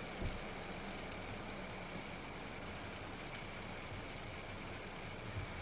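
Faint steady outdoor background hiss with a low hum, and two soft low thumps, one just after the start and one near the end.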